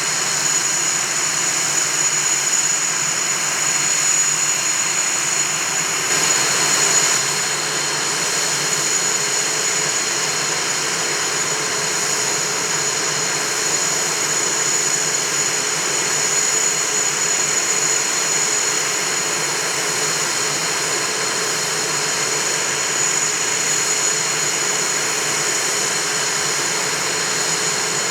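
Northrop F-5E Tiger II's twin General Electric J85 turbojets running steadily, a loud rush with a constant high-pitched whine. The sound swells briefly about six seconds in, then settles.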